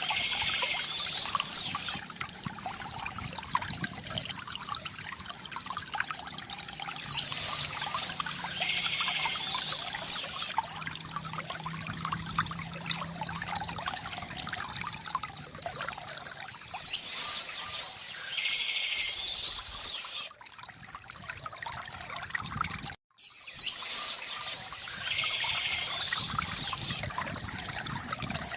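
Stream water trickling and splashing steadily, with a songbird singing short phrases every several seconds. The sound cuts out for a moment about three quarters of the way through.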